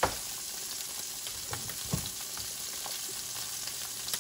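Salmon fillets frying skin-down in olive oil in a pan: a steady sizzle with small scattered pops. A sharp click right at the start, and a couple of softer knocks about two seconds in.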